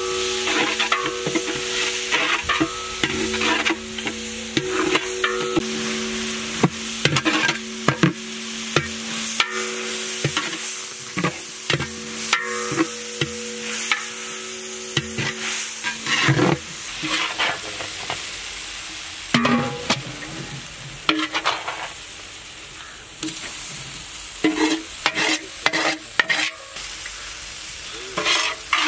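Long-handled metal spatula stirring and scraping sliced onions, tomatoes and peppercorns frying in a large aluminium pot: a steady sizzle with irregular scrapes of metal on the pot. A low steady hum runs under it and stops about halfway through.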